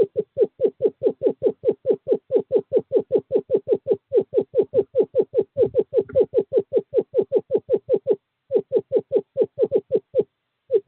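Male screech owl giving a long, steady trill of rapid, evenly spaced low notes, about five or six a second. It is a courtship call to a female, heard close to the nest-box microphone. The trill breaks off twice briefly near the end and resumes.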